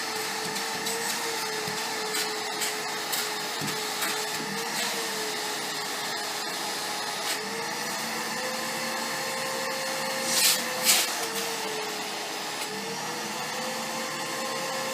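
Household vacuum cleaner running steadily, its motor tone shifting up and down slightly as the suction load changes, with two short, louder hissing bursts about ten seconds in.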